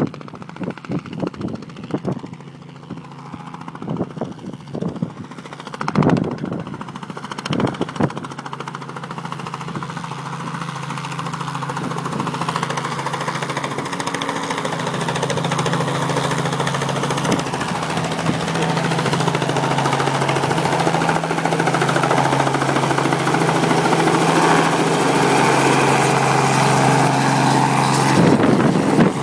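Robinson R44 helicopter's piston engine and rotor running: irregular knocks and thumps in the first several seconds, then a steady drone that grows gradually louder as power comes up.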